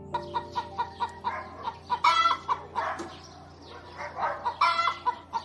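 Chickens clucking in quick short notes, with two longer, louder calls about two seconds in and again near the end.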